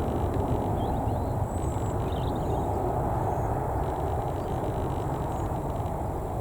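Low, steady rumble of an EasyJet Airbus A319-111's CFM56 turbofan engines, slowly fading as the jet moves away.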